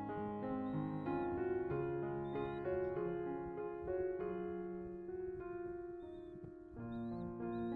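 Background piano music with slow sustained notes, with a few faint, short, high chirps of birds now and then over it.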